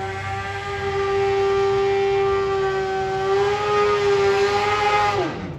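Drag bike engine held at high revs, a steady high-pitched note that climbs slightly, then drops away sharply as the throttle is shut off near the end.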